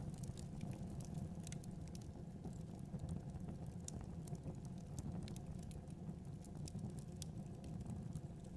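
Fireplace fire burning: a steady low rumble with scattered small crackles and pops, several a second.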